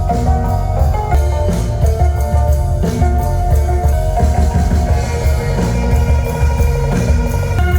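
Live instrumental music from a yanggeum (Korean hammered dulcimer), electric bass and percussion trio: a heavy, driving bass line with steady drums under fast repeated struck-string notes.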